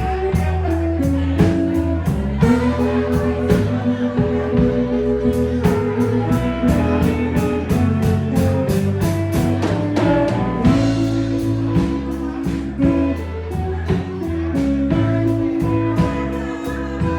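Live blues band playing an instrumental stretch: guitar over bass and a drum kit keeping a steady beat.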